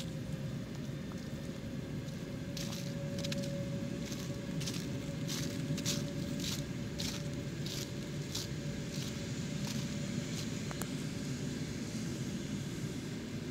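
Passenger coaches rolling along the track with a steady rumble and a faint steady tone. Over it, from a couple of seconds in until past the middle, crisp crunching steps on frosty ground come about every half second.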